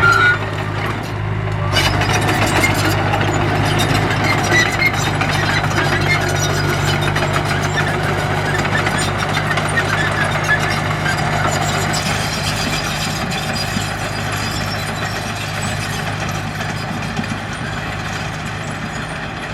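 Heavy diesel engine of a construction machine running steadily, a low drone that dips briefly about a second and a half in and fades a little near the end.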